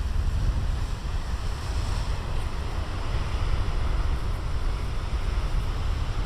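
Big ocean surf breaking and washing ashore, a steady rushing hiss, with wind buffeting the microphone as a heavy low rumble.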